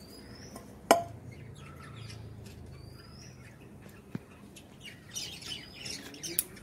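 A bird gives a short, rising, whistled call twice, about three seconds apart. A sharp click about a second in is the loudest sound. Later, leaves rustle and scissors snip as chillies are cut from the plant.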